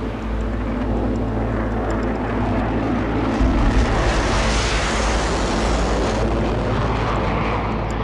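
Fighter jet engines running, a loud rushing noise that swells about three and a half seconds in and holds steady.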